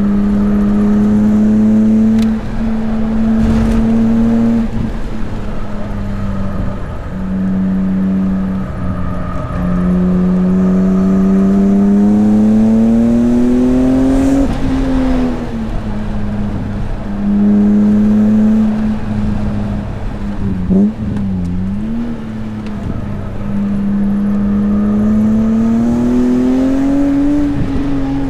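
BMW S54 inline-six engine in an E36 M3 under hard acceleration, its note climbing through the revs in several long pulls and dropping back sharply between them as the driver shifts or lifts. The longest climb comes about halfway through, and near the three-quarter mark the pitch dips and wobbles briefly.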